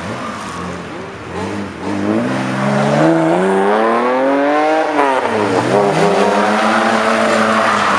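Car engine accelerating hard, its pitch climbing steadily for about three seconds, dropping sharply at a gear change about five seconds in, then climbing again and holding.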